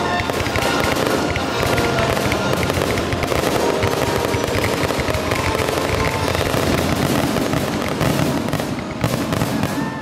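Fireworks crackling and bursting continuously, a dense spray of sharp pops, with a couple of sharper bangs near the end. A symphony orchestra plays underneath.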